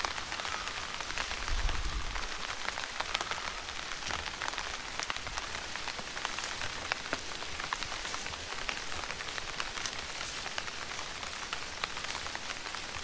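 Rain falling, a steady hiss dotted with many small sharp drop ticks, with a brief low thud about a second and a half in.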